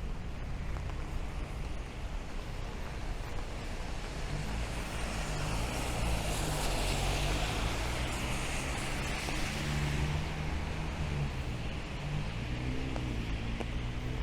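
A motor vehicle goes by slowly on a wet street. Its engine hum and tyre hiss swell from about four seconds in and ease off after ten, over the steady hiss of rain.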